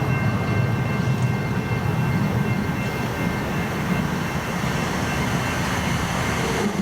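Steady rumble of a train running, with faint high steady tones over it that fade out a little past the middle.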